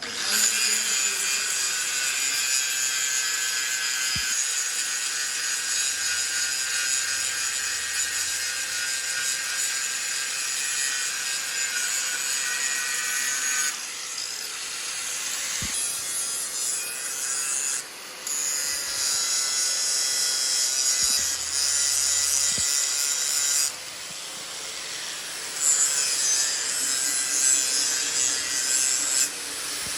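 Metal being machined or ground on a workshop machine tool, a steady high-pitched whine and hiss of cutting that starts abruptly and drops off and changes pitch several times.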